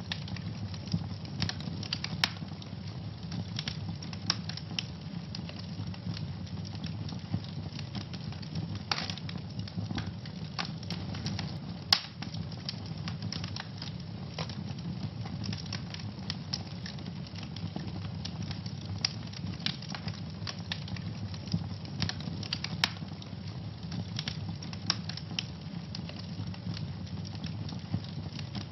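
Wood fire burning in a fireplace, crackling and popping irregularly over a steady low rumble of the flames, with one sharper pop about twelve seconds in.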